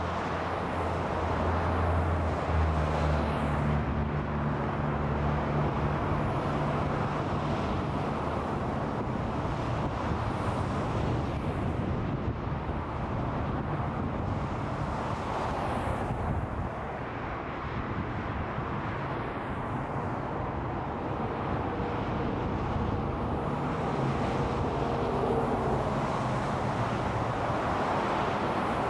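Interstate highway traffic: a continuous rush of tyre and engine noise from passing cars and trucks, with a low engine drone standing out during the first six seconds.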